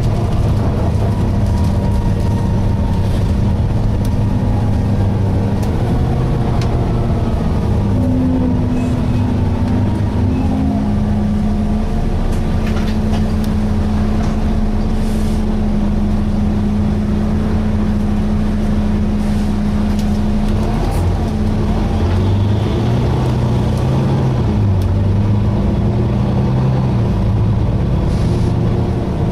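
Volvo B9TL double-decker bus heard from on board, its engine and transmission running steadily under way. The engine note shifts in pitch a few times, stepping up and down about a third of the way in and again from about two-thirds of the way through, with fainter wavering whines above it.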